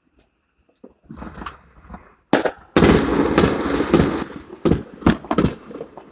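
Consumer fireworks going off. A sharp bang comes about two seconds in, then dense crackling for about two seconds, followed by several more sharp bangs.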